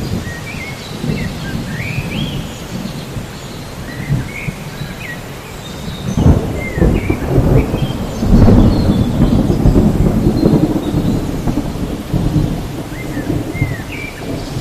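Thunderstorm: steady rain with a rumble of thunder that builds about six seconds in, is loudest in the middle, and then eases off.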